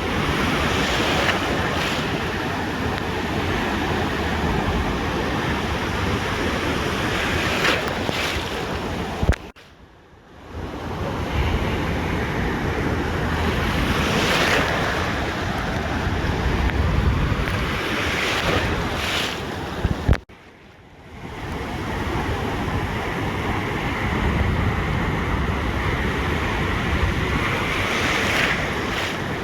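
Ocean surf washing onto a beach, a steady rush of breaking waves that swells and eases, with wind buffeting the microphone. Twice, about ten and twenty seconds in, the sound cuts off suddenly with a click and then fades back in.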